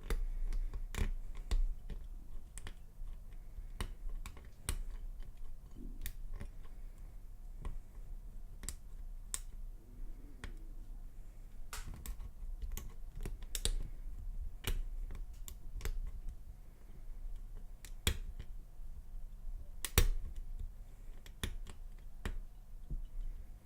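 Lock pick and tension wrench clicking against the pin tumblers of a Lockwood laminated padlock during single-pin picking: irregular sharp clicks, with one louder click near the end.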